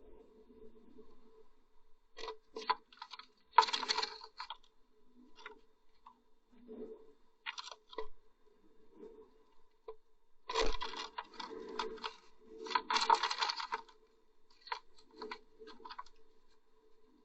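Blue tit scratching and rustling inside a nest box, with sharp clicks and scuffs of claws and nest material in irregular bursts, the busiest about four seconds in and from about ten to fourteen seconds in, over a faint steady electrical hum.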